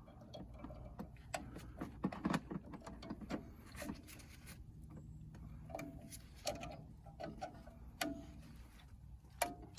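Irregular metal clicks, taps and scrapes of hand tools working on drum-brake hardware, as a shoe hold-down spring is turned and worked off its pin.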